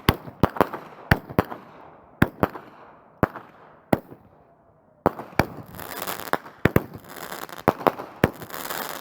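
Fireworks going off: sharp bangs every half second or so, then a brief lull, then from about five seconds in a dense crackling with more bangs mixed in.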